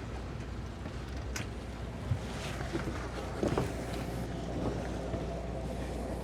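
Boat outboard engines idling steadily, with wind noise on the microphone and a few light knocks.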